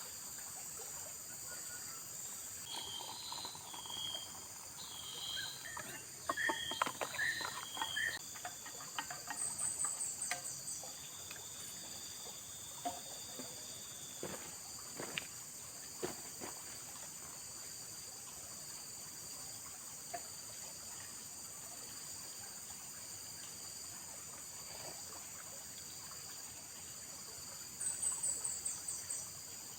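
Steady high-pitched insect chorus of a tropical rainforest, with a few short calls from another animal and some knocks in the first half. A quick ticking trill comes twice, about nine seconds in and near the end.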